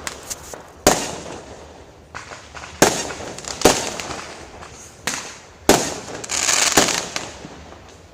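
Fireworks going off: about five loud, sharp bangs and a couple of smaller pops, spaced roughly a second apart, each fading away in an echo. A crackling hiss builds up between them about six to seven seconds in.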